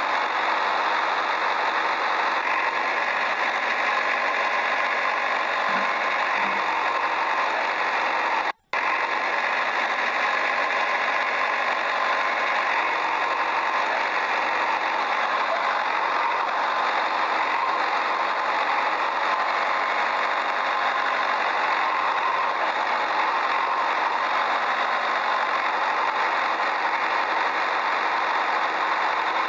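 A motor running steadily with an even mechanical noise, broken once by a split-second cut to silence about nine seconds in.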